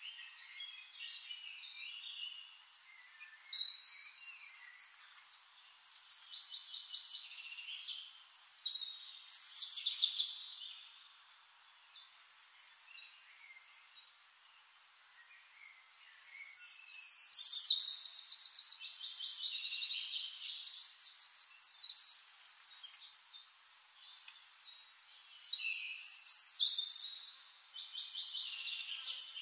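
Songbirds singing: phrases of high chirps and quick trills, with a quieter lull partway through.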